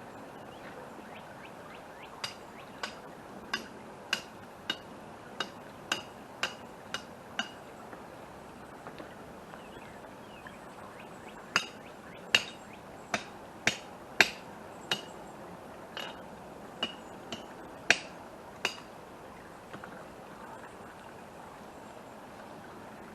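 Hammer striking metal in two runs of about ten blows, a little over half a second apart, each blow with a short ringing.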